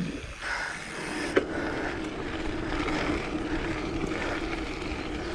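Mountain bike rolling along a forest dirt track: steady tyre rumble and wind on the microphone. A steady hum starts about a second and a half in, just after a single click.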